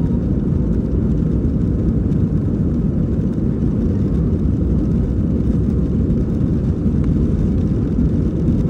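Airliner on its climb after takeoff: a steady, low rumble of engine and airflow noise that holds even throughout.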